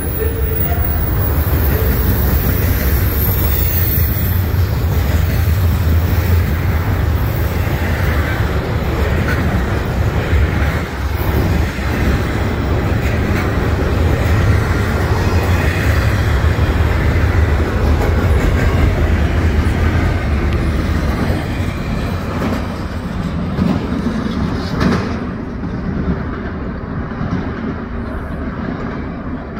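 Doublestack container train's well cars rolling past: a steady rumble of steel wheels on rail with clickety-clack. The rumble eases over the last several seconds, with one sharp knock near the end.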